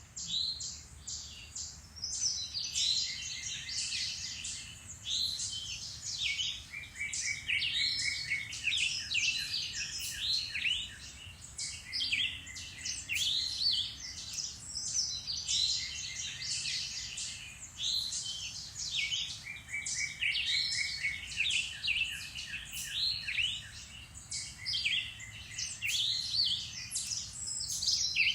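Several songbirds singing together in woodland, a dense chorus of chirps and whistles. One bird repeats a rapid trill of short notes about every five seconds.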